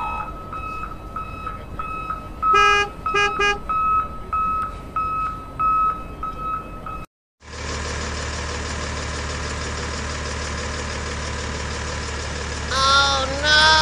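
Electronic toy-vehicle sound effects: a steady beeping about twice a second, like a reversing alarm, with three short horn toots about three seconds in. After a brief cut-out, a steady engine-like drone with a low hum, and two short wavering tones near the end.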